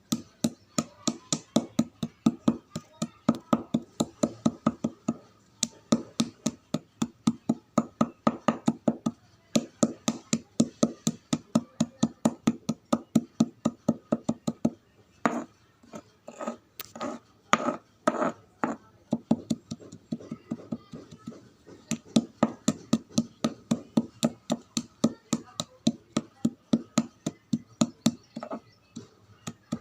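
Chalk crunching in a steady run of short crisp crunches, about three a second, with a stretch of sharper, louder crunches about halfway through.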